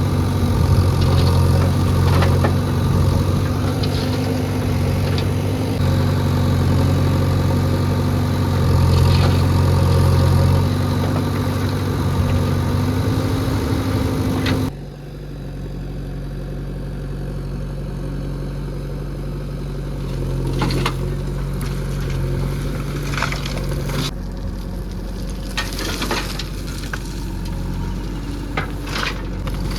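JCB 3DX backhoe loader's diesel engine running hard, with a few scattered clicks over it. About halfway through the sound drops abruptly to quieter, steady engine running with more frequent sharp clicks and scrapes.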